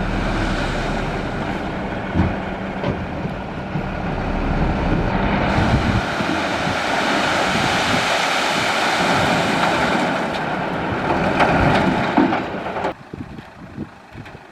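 Heavy dump truck engine running steadily. About five seconds in, a loud rushing noise joins it and then cuts off abruptly near the end.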